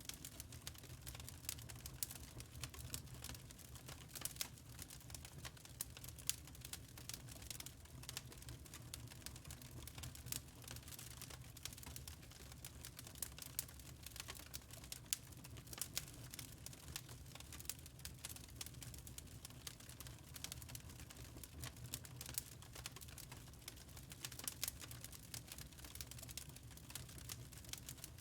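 Wood fire crackling: frequent, irregular sharp pops and snaps over a low, steady rumble.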